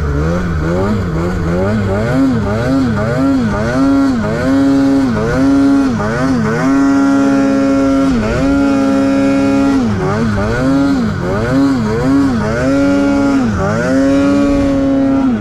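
Snowmobile engine revving up and down over and over as the sled rides through deep snow, held at high revs for a second or two around the middle and again near the end.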